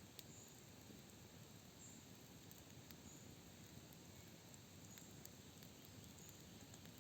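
Faint campfire crackling: scattered sharp snapping clicks over a soft steady hiss, with a few faint short high bird chirps.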